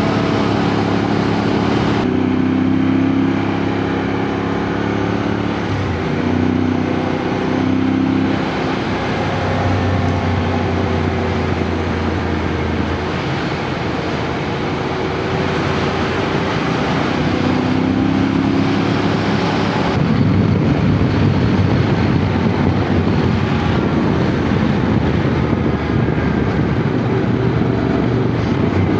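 Yamaha Ténéré adventure motorcycle being ridden, its engine note rising and falling with changes in speed and gear, over steady wind and road noise.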